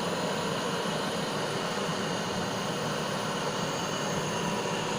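Butane kitchen blowtorch flame running with a steady hiss.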